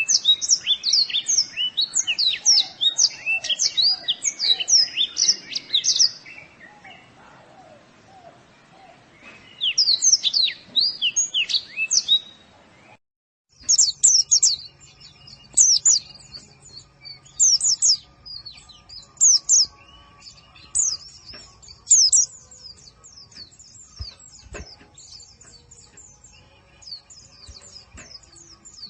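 Pleci (white-eye) song: rapid, high twittering chirps in dense bursts with short pauses between them. The sound cuts out completely for a moment about 13 seconds in, then the chirping resumes.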